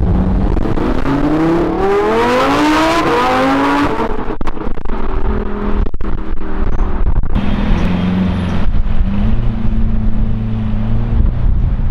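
Lamborghini Huracán Performante's V10 accelerating hard away, its pitch climbing in steps through upshifts over the first four seconds. A few seconds later a Lamborghini Aventador's V12 runs steadily at low revs.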